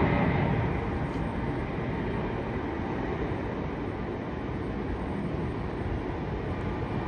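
Jet aircraft engine noise fading after a close pass, easing off over the first second or so into a steady rumble and hiss.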